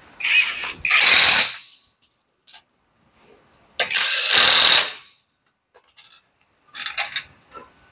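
A workshop tool working on a car wheel in hissing blasts: two of about a second each, then a few shorter bursts near the end.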